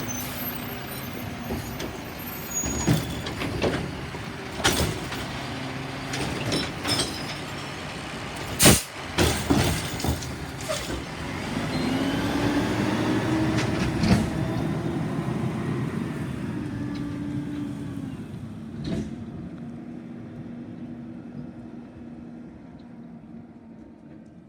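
Garbage truck's diesel engine running, with several sharp knocks and clanks in the first half as the recycling cart is handled. About halfway through the engine note grows louder and holds, then fades away steadily.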